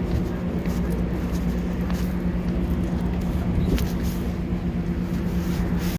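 MARC commuter train's diesel locomotive running steadily at the platform: an even, low engine drone with a steady hum.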